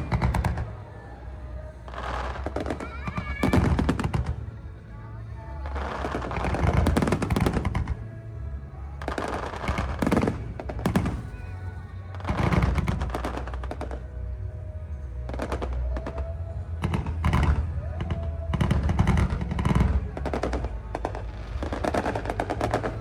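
Aerial fireworks shells bursting in rapid volleys, with a cluster of bangs every few seconds, over music playing in the background.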